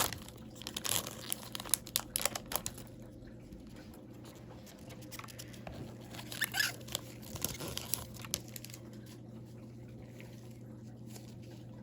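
A hockey card pack wrapper crinkling and tearing as it is opened, and cards being handled. There are bursts of rustling in the first few seconds and again past the middle, with a faint steady hum beneath.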